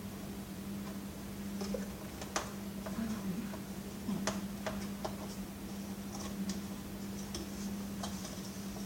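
Scattered light clicks and taps of the plastic parts of a vacuum cleaner being handled during a teardown, over a steady low hum.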